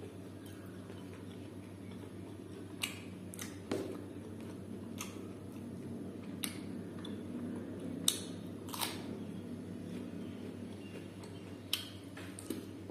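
Close-up mukbang eating sounds: a person chewing pork and rice eaten by hand, with several short, sharp wet smacks and clicks scattered through, over a steady low hum.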